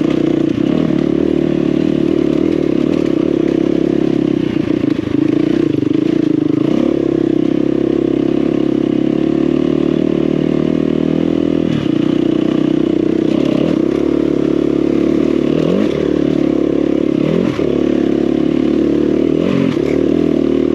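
KTM 350 EXC-F dirt bike's four-stroke single-cylinder engine running steadily under load on a hill climb, with quick rises in revs a few times, mostly in the second half. Clattering and scraping from the bike bouncing over rocks.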